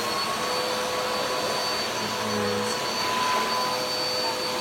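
Carpet vacuum cleaner running steadily at full speed: a high steady whine over a broad rushing noise.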